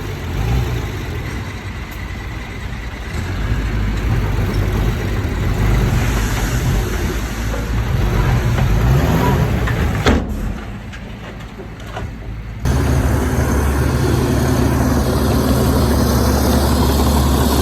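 Heavy diesel engine of earthmoving machinery running under varying load. There is a sharp click about ten seconds in and a brief quieter stretch. A steadier, deeper engine drone then starts abruptly and runs to the end.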